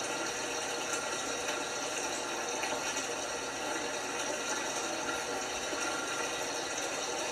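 LG washing machine running, with a steady sound of water flowing inside it and a faint steady machine hum.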